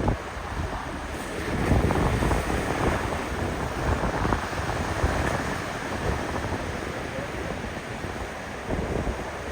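Hurricane-driven surf breaking on the beach, with strong wind buffeting the microphone; the rush of the waves swells loudest about two seconds in, then eases.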